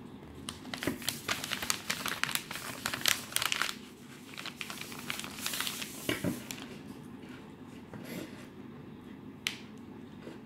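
Packaging being handled: crinkling and clicking crackles, dense for the first few seconds and again around five to six seconds, then a few single clicks, over a steady low hum.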